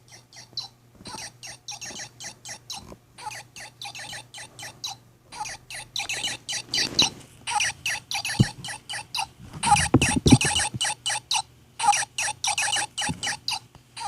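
Rapid high squeaks or chirps, about six a second, in runs of a couple of seconds broken by short pauses, loudest about ten seconds in.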